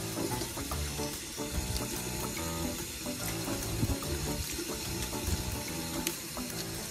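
Water from a garden hose pouring steadily into a stainless-steel dog bowl and splashing, with background music playing.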